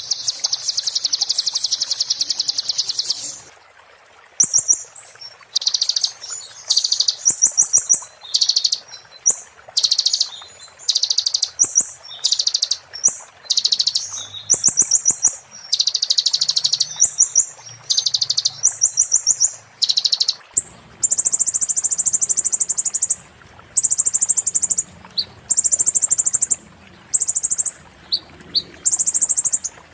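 Olive-backed sunbird (kolibri ninja) singing a rapid, sharp, high trilling song in repeated bursts, the 'muntah beling' style. A long burst opens it, and from about two-thirds of the way in the bursts run longer and higher with short gaps between them.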